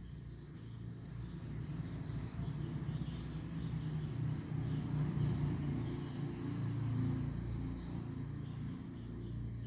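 A low motor rumble that swells over the first half and eases off toward the end, like a vehicle going by.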